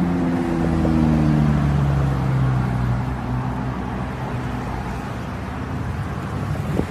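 Car engine, its note falling steadily over the first three seconds as it slows, then running on as a steady low rumble.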